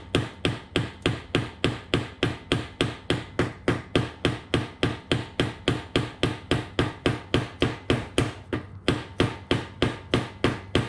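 A hammer striking rapidly and steadily, about four blows a second, to free a stuck part on a Yamaha 225's clutch-side engine case.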